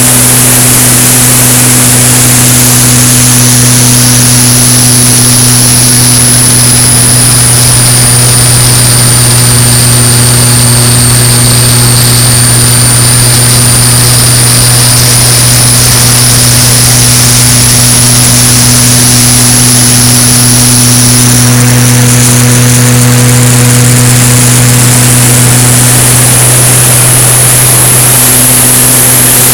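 Cessna 170's piston engine and propeller droning loud and steady in flight, a constant low hum with a faint high whine that sags slightly in pitch midway and climbs back.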